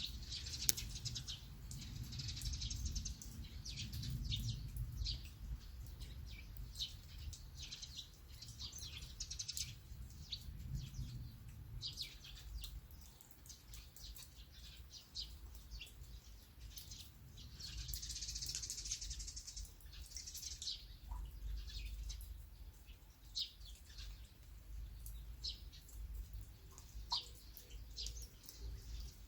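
Small birds chirping again and again in short calls, with a longer trill about two-thirds of the way through, over a steady low rumble.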